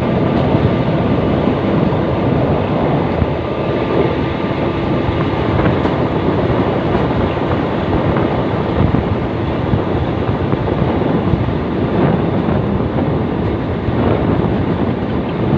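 Railway ballast regulating machine working on the track, its engine and machinery giving a steady, loud, continuous noise.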